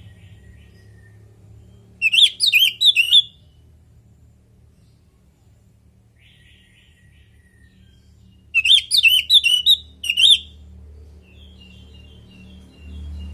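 Orange-headed thrush singing: two loud bursts of quick, high, swooping notes, each lasting about a second and a half, with softer twittering phrases in between, over a low steady hum.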